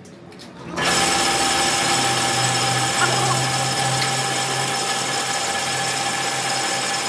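A power tool starts up about a second in and runs steadily with a whine, part of machining work on a broken engine timing gear.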